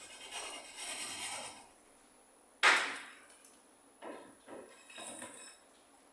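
A ceiling panel being cut for a speaker hole with a hand ceiling saw: a short rasping stretch of sawing, then a single sharp knock, the loudest sound, followed by a few lighter knocks and scrapes.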